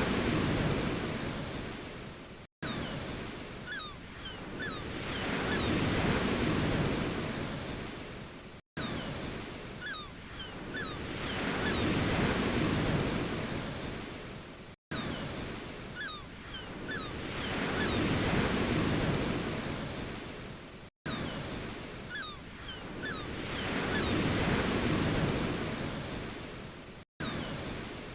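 Ocean waves washing in and drawing back, one swell about every six seconds, with faint short chirps over them. The same few seconds repeat as a loop, each pass broken by a brief dropout to silence.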